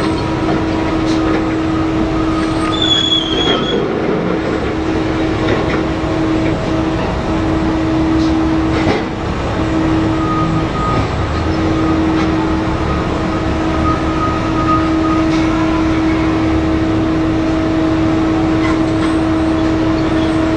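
Giant mining dump truck running steadily, a loud even mechanical rumble with a constant whine over it.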